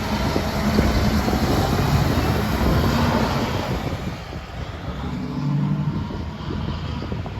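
Traffic passing on a road: a truck engine goes by and fades about four seconds in, then another vehicle engine passes.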